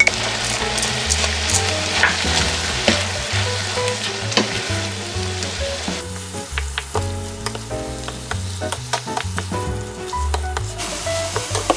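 Food sizzling in a frying pan, with short clicks and scrapes of a utensil stirring it. The sizzle is strong at first, fades about halfway through and comes back near the end.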